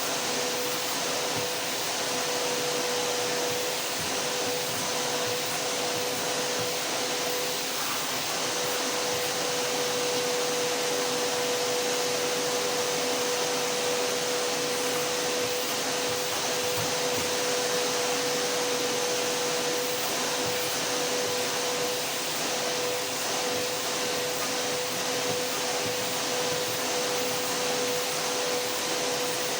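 Vacuum cleaner running continuously: a steady, even whooshing hiss of motor and airflow with a constant hum tone, unchanging throughout.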